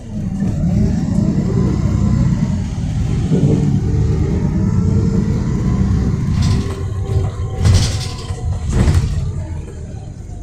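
Volvo B7RLE single-deck bus's six-cylinder diesel engine running under load as the bus pulls away, its rumble rising sharply at the start and swelling and easing. Near the end there are two short bursts of noise about a second apart.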